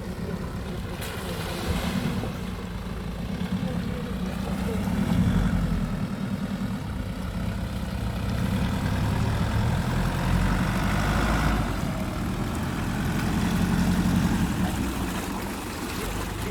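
Nissan Patrol Y61's engine working off-road, the revs swelling and easing several times.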